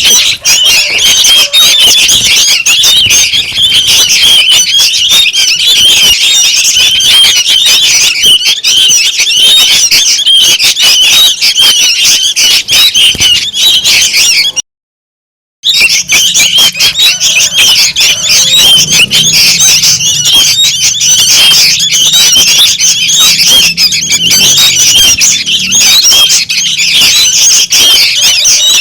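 A noisy flock of sooty-headed bulbul chicks calling, a loud, dense, unbroken clamour of high chattering calls used as a lure for catching bulbuls. It cuts out completely for about a second midway, then resumes.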